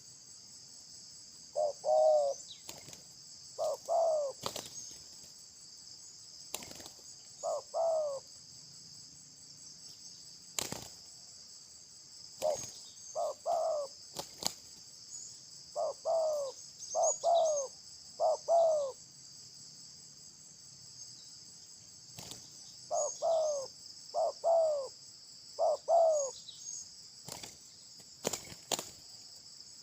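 A bird giving short, clear calls, mostly in pairs of notes, repeated in irregular bursts of one to three pairs, over a steady high drone of crickets or other insects. A few sharp clicks are also heard.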